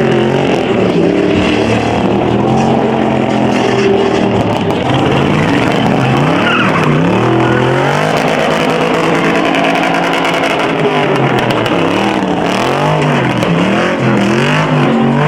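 Muscle car engines revving hard, rising and falling in pitch again and again, with tires squealing and skidding as the cars do burnouts.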